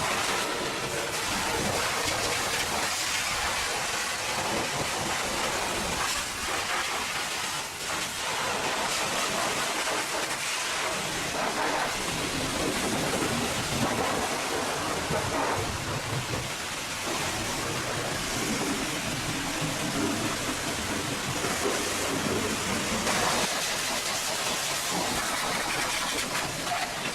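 High-pressure water spray hitting a truck: a steady hiss of water that swells and eases as the jet moves over the body.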